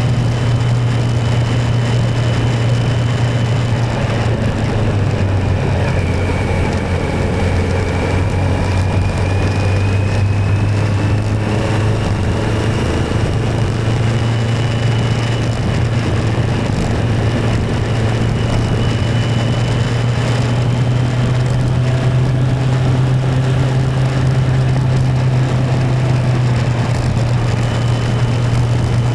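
Motorcycle riding at a steady speed, its engine and road noise making a continuous low drone with faint higher tones drifting slightly in pitch.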